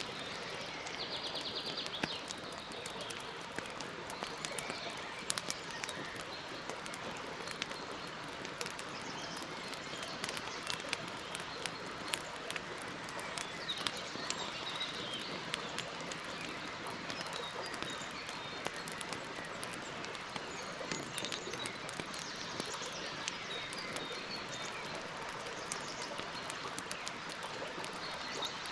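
Campfire crackling: many sharp pops and snaps over a steady hiss, with birds chirping now and then in the background.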